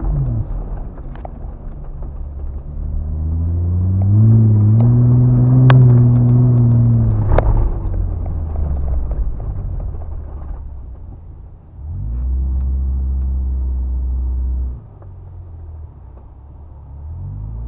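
Off-road truck engine running and revving: the pitch climbs a few seconds in, holds, and falls back, with a few sharp knocks along the way. Later it settles to a steady low drone that drops off about three seconds before the end and picks up again at the very end.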